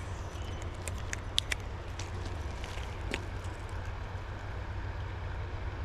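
Steady low rumble of wind on the microphone, with a few short sharp clicks in the first three seconds.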